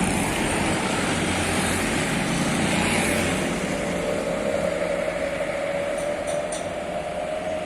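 Bus engine running steadily through its newly fitted aftermarket 'serigala' (wolf) exhaust, a continuous rumble. A faint whine rises slowly in pitch through the second half.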